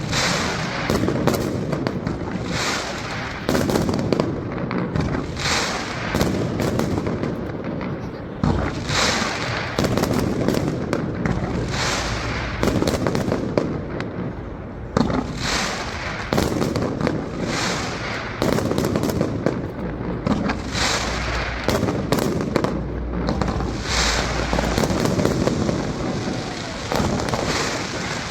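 A fireworks display: shells bursting in quick succession, with sharp bangs about once a second over a continuous rumble and crackle.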